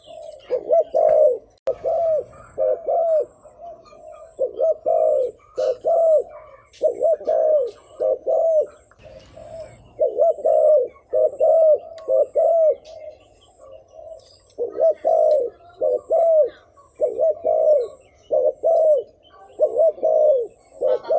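Spotted dove cooing, the rapid bowing coo used to rouse wild doves: short arched coo notes repeated in close pairs and quick runs, with brief pauses about four and fourteen seconds in.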